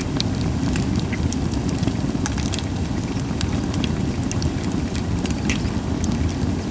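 Campfire of Japanese white pine (goyomatsu) wood crackling, with sharp pops scattered throughout, over a steady low rumble.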